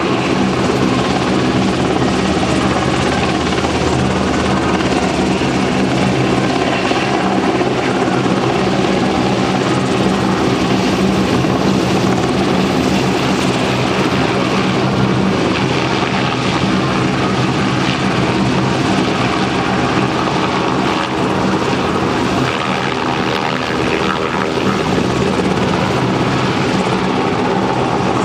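UH-60J Black Hawk-type helicopter in display flight: a steady rotor beat and twin-turbine engine sound, loud and unbroken.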